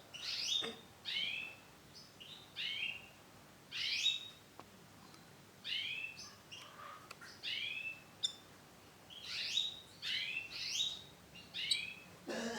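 Female canary calling: short chirps in clusters of two or three, each note sweeping downward, repeated every second or two.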